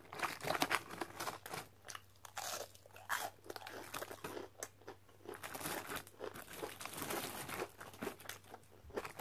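Chewing and crunching on crispy fried onion rings: many irregular crisp crunches with wet mouth sounds.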